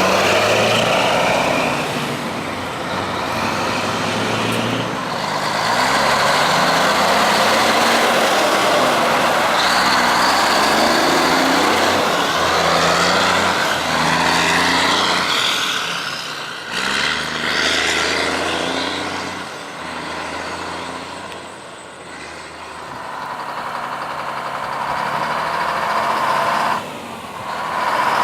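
Diesel semi-truck engines running loud, the engine note stepping up and falling back again and again as the trucks pull away through the gears. It quietens for a few seconds about two-thirds of the way through.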